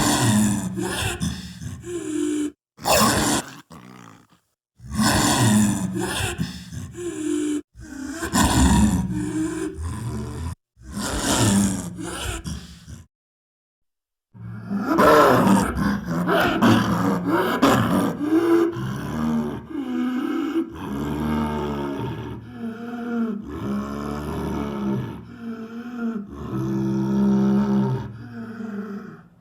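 Lion roaring and growling in a string of separate clips joined with abrupt cuts and short dead-silent gaps. From about halfway in, one longer unbroken stretch of repeated roars.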